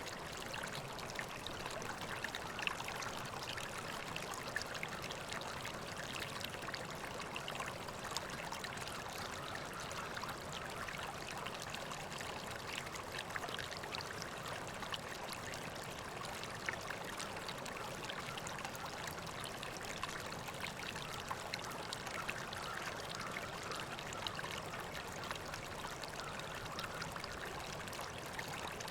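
A river flowing steadily: continuous rushing, trickling water with many small splashes scattered through it.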